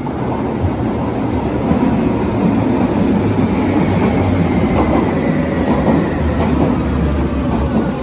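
Berlin U-Bahn large-profile metro train running on the track, a loud rumble of wheels and rail that swells over the first couple of seconds, with a faint whine slowly falling in pitch.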